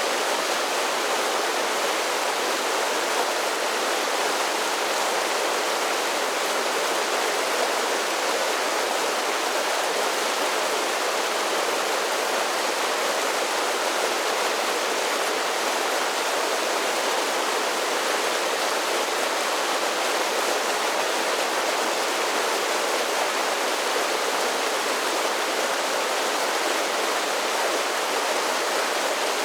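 Mountain creek tumbling over a series of small waterfalls: a steady, even rush of water that does not change, with little deep rumble.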